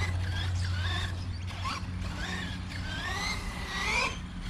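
A 1/10 scale high-geared RC monster truck's electric motor and gears whining in short rising and falling bursts as it is throttled on and off.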